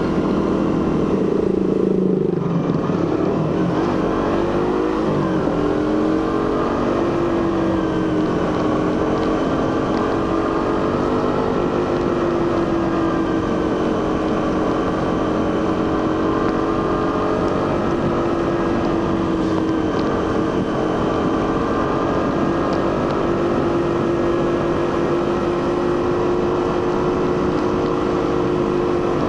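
Suzuki GSX-R150's single-cylinder engine and stock exhaust under way. The pitch drops about two seconds in, climbs and wavers again, then holds steady at cruising revs.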